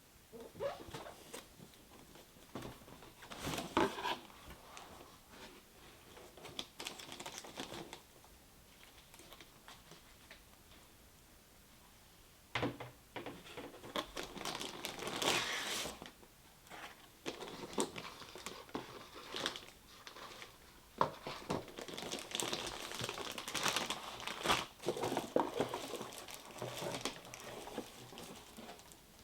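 Packaging and computer parts being handled: crinkling and rustling with scattered small clicks and knocks, pausing for a few seconds before the middle.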